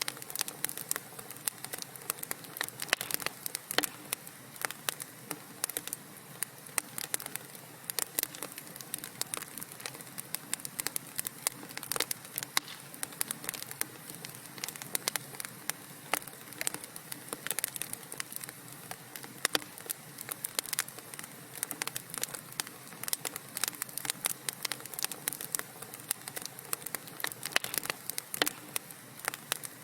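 Wood fire crackling in a fireplace: many sharp pops and snaps in quick, irregular succession over a soft, steady hiss.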